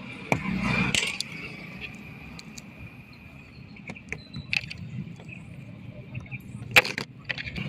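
Metal hand tools clicking and scraping while working on a tubeless scooter tyre during a puncture repair. A scraping rush comes about half a second in, followed by scattered clicks and knocks, the sharpest one near the end.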